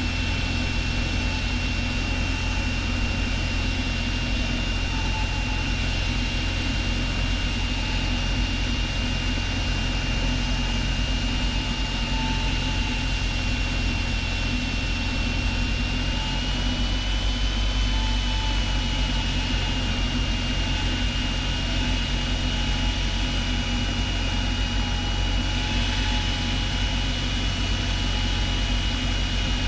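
Steady drone of a Cessna 172's piston engine and propeller in cruise, heard in the cockpit through the headset intercom, with a thin high whine running over it that lifts slightly in pitch about halfway through.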